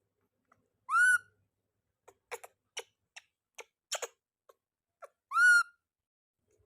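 A baby monkey giving two short, high calls that rise in pitch, about a second in and again near the end, with scattered light clicks and taps between them.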